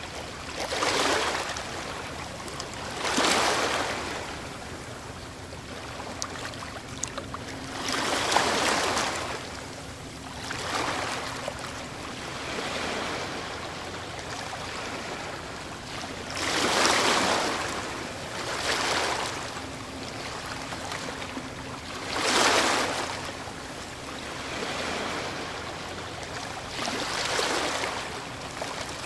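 Ocean waves breaking on the shore, one rushing crash every few seconds over a steady wash of surf, about eight in all.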